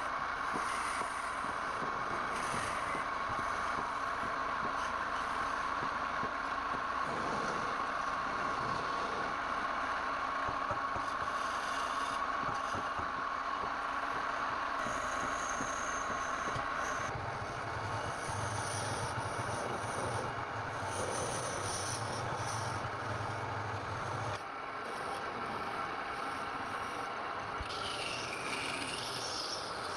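Woodturning lathe running while a tool scrapes against the spinning wood. A steady whine runs through the first half and fades about halfway. A low hum then joins and stops about three-quarters of the way through.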